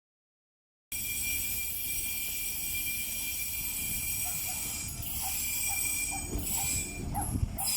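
Railway equipment running beside the track, starting suddenly about a second in: a low engine rumble under a steady high-pitched ringing, with short chirps repeating from about halfway through.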